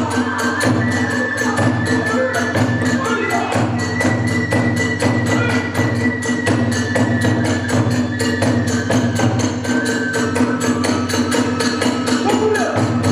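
Hiroshima kagura accompaniment: drums and small hand cymbals keep up a fast, even beat while a transverse bamboo flute plays high held notes over it.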